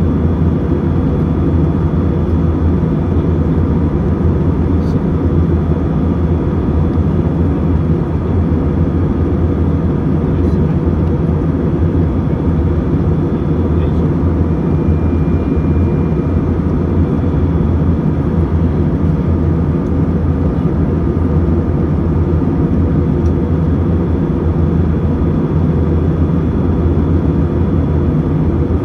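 Airliner cabin noise in level cruise, heard from inside the passenger cabin: a loud, steady low rumble with faint even hum tones above it.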